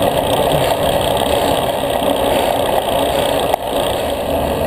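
Steady wind and road noise on a bike-mounted camera while riding a road bicycle at race pace, with a single sharp click about three and a half seconds in.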